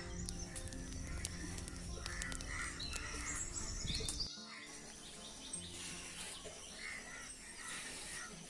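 Birds chirping and calling over soft background music. The low steady tones drop away about four seconds in.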